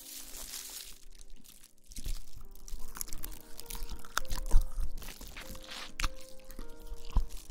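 Close-miked ASMR rustling and crinkling, noisy scratchy stretches broken by irregular sharp clicks, over faint background music.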